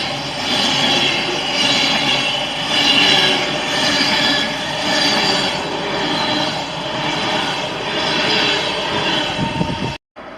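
A train moving on the track: a loud, steady run of rail noise that cuts off abruptly near the end.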